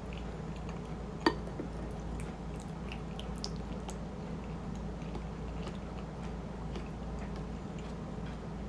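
Someone chewing a mouthful of shrimp chili and rice, with small wet mouth clicks throughout, over a steady low hum. About a second in, a utensil gives a single sharp, ringing clink against the dish.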